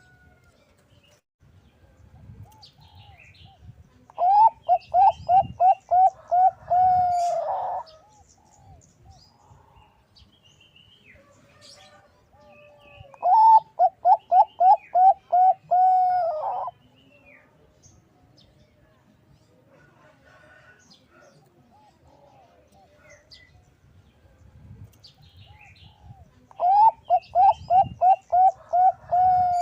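Bangkok-type zebra dove (perkutut) singing its cooing song: three bouts of about eight to ten quick cooing notes, each ending in a longer note. Faint chirps of other small birds come between the bouts.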